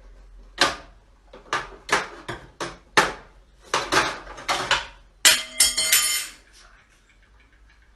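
A run of sharp clattering knocks of hard objects, about two a second, then a louder clatter with a brief ringing tone.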